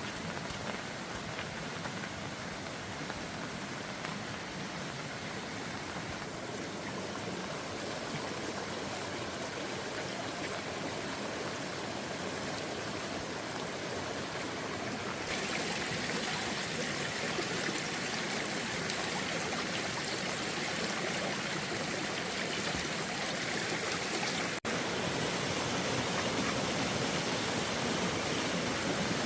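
Steady rush of flowing floodwater, like a swollen stream. About halfway through it suddenly becomes louder and brighter.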